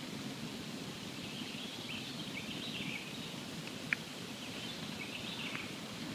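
Campfire burning with a steady low rush and scattered sharp crackles, the loudest pop about four seconds in.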